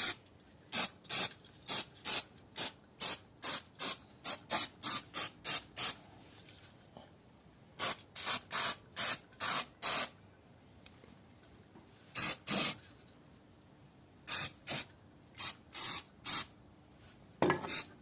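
Spray can of oil fired in quick short bursts, about three a second, in several runs with pauses between them. It is being sprayed onto rusted underbody parts, the brake lines, shock absorber and bolts, to stop the rust.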